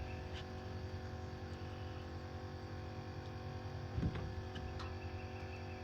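Boat motor idling steadily, with a few light knocks, the clearest about four seconds in.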